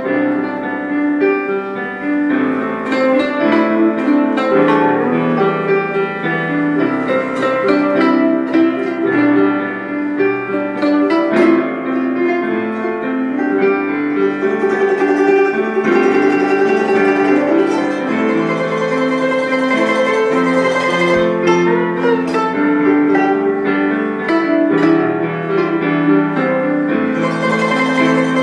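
Guzheng playing a slow melody of plucked notes, some left ringing.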